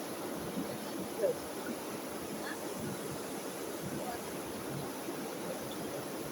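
Steady rushing of a small river's flowing water, with a brief faint sound about a second in.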